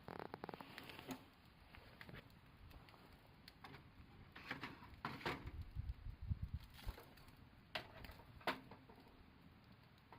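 Campfire crackling, with irregular sharp snaps and pops from the burning wood. A low rumble comes in about halfway through.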